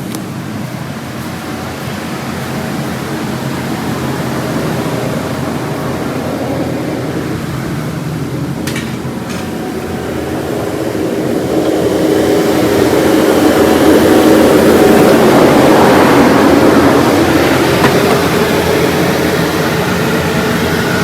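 A vehicle engine running steadily, getting louder about halfway through as it is worked harder, with a couple of brief clicks just before.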